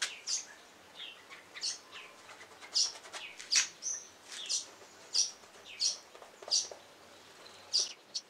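Birds chirping: a string of short, high chirps, about one every three-quarters of a second.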